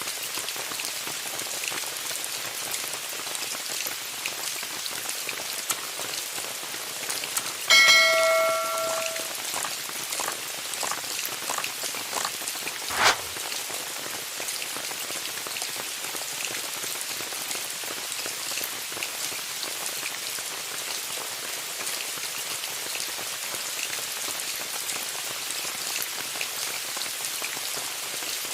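Steady rain falling on a tent. About eight seconds in, a single loud ringing strike with several bell-like tones fades over about a second, and a sharp tap follows some five seconds later.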